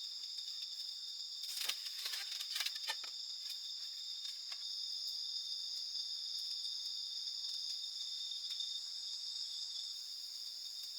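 Steady high-pitched chorus of insects, crickets or cicadas, holding a constant shrill tone throughout. A quick cluster of sharp clicks and snaps sounds between one and a half and three seconds in.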